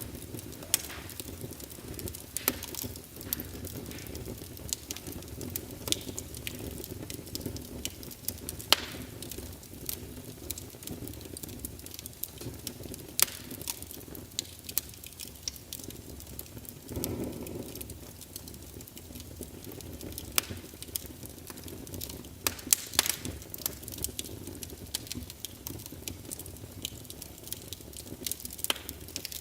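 Wood fire crackling in a fireplace: irregular sharp pops and snaps over a steady low rumble of flames, with a brief louder rush about seventeen seconds in.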